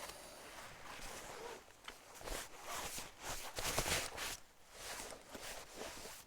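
Footsteps with rustling on the forest floor, irregular and uneven.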